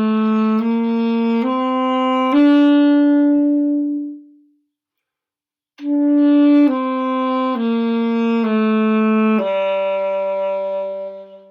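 Saxophone playing a slurred five-note warm-up scale, E, F sharp, G, A, B, up to a long held top note, then after a pause of about a second slurring back down B, A, G, F sharp to a long held E.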